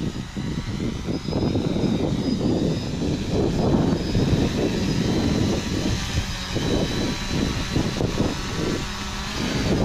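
UpAirOne quadcopter drone's motors whining in flight, with thin high-pitched squealing tones that the pilot takes for a damaged motor. Gusty wind buffets the microphone.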